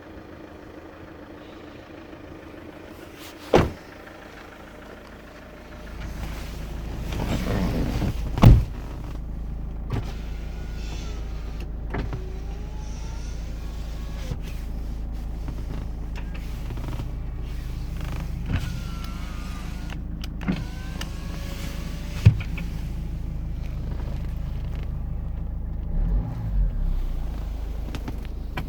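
Daewoo Winstorm SUV with a single sharp click, then its engine coming to life about six seconds in and settling to a steady idle. While it idles, the electric power-window motors whine as the windows are run up and down several times, with a few short clicks between.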